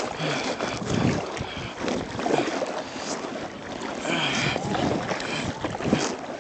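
Water splashing and sloshing around a kayak, with wind buffeting the phone's microphone.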